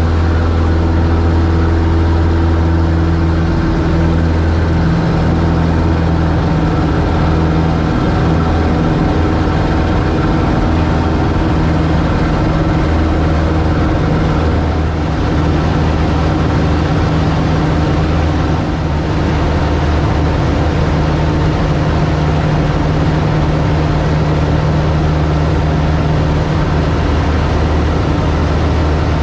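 Cub light aircraft's piston engine and propeller droning steadily in flight, heard from inside the cabin.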